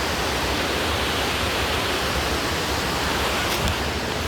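Steady rushing roar of a waterfall, the water noise running evenly without a break.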